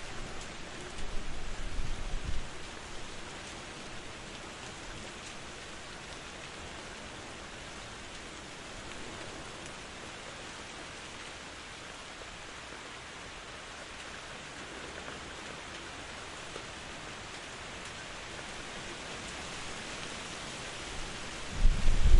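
Steady rain making an even hiss, broken twice by short, loud, deep rumbles: once about a second in and again near the end.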